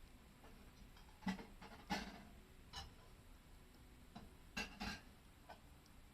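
Split firewood pieces knocking against each other as they are restacked: six or seven irregular, separate wooden knocks and clicks, some with a short low ring.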